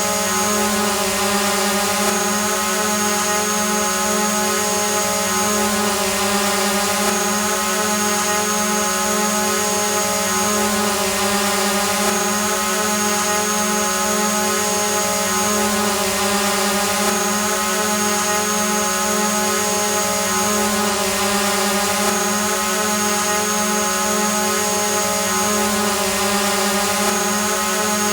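Drone hovering: a steady hum from its motors and propellers, holding one pitch with many overtones.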